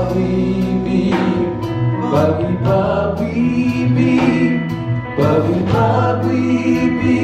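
Gospel praise music: a choir singing over a live band with bass and drums keeping a steady beat.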